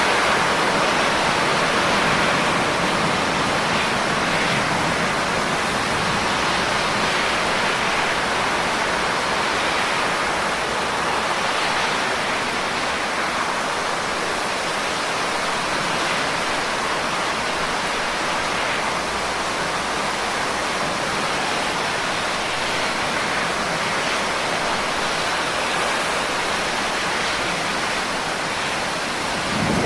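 Steady heavy rain: an even, unbroken hiss with no separate drops standing out.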